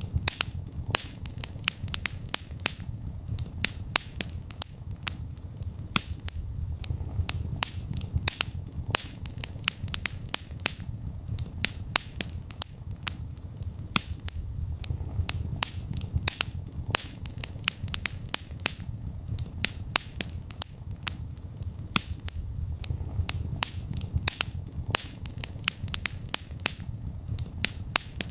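Wood fire burning in a fireplace: a dense run of sharp crackles and pops, several a second, over a low steady rumble of flame.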